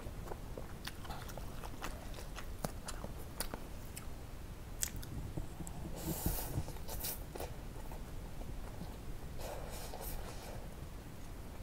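Close-miked eating of Korean spicy ramen noodles: wet chewing with many small sharp mouth clicks, then two longer noisy sounds about six and ten seconds in.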